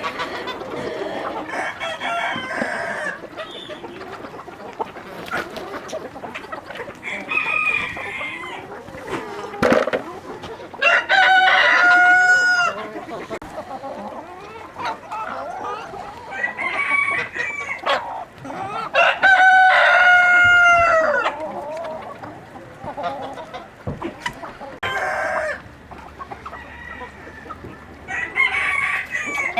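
Rooster crowing twice, two long calls about eight seconds apart, with hens clucking around it.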